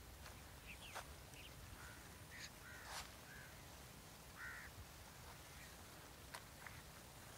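Faint outdoor quiet with a few short bird calls scattered through it, bunched around the middle, and a few light clicks.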